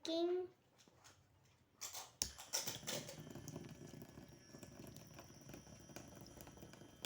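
A small battery-powered DC water pump fountain is switched on with a few clicks about two seconds in. It then runs steadily, with water falling back into the plastic jar.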